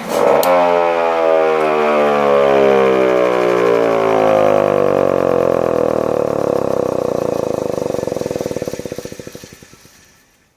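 Federal Signal Model 2 siren, run on 120 volts after restoration, comes on abruptly with a loud wail, then winds down with slowly falling pitch and fades out about ten seconds later.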